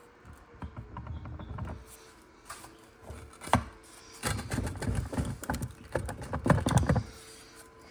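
Metal parts inside a cut-open torque converter being worked and pried loose: irregular clicks, knocks and scrapes, coming thick and fast in the second half.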